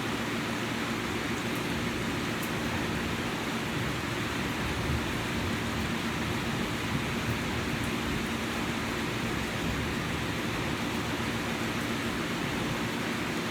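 Steady rain falling, an even unbroken hiss, with a faint steady low hum underneath.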